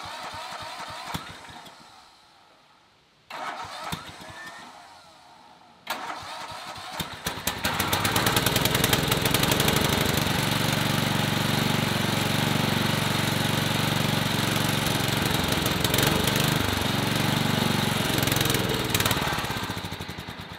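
A 1975 Sears lawn tractor's engine being started on its electric starter, with a fresh float valve and seat in the carburetor. Two short cranking tries don't catch. On the third try, about six seconds in, it catches and runs steadily on part choke. Near the end it dies away, which the owner puts down to pushing the choke in too far.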